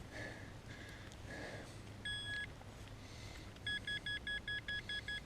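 Metal detector beeping on a buried target: a few faint short tones, one longer beep about two seconds in, then a fast run of short beeps at about five a second.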